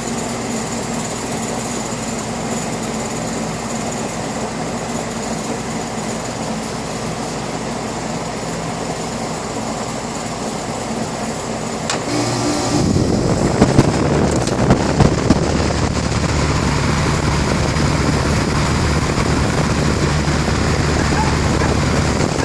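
Air conditioner running with a steady hum and rush of airflow; about thirteen seconds in the sound grows louder with a deeper, stronger hum, and a few knocks follow.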